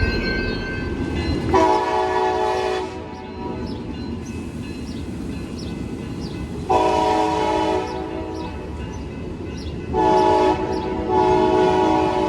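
Amtrak passenger locomotive's multi-chime air horn sounding the grade-crossing signal: two long blasts, a short one, then a long one, over the low rumble of the passing train.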